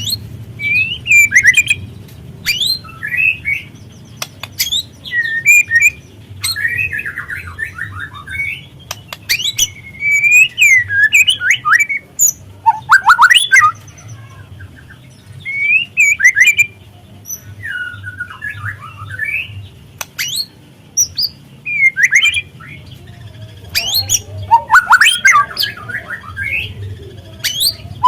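Juvenile white-rumped shama (murai batu) singing in short bursts of quick chirps, squawky notes and sharp clicks, a new phrase every second or two with brief pauses between.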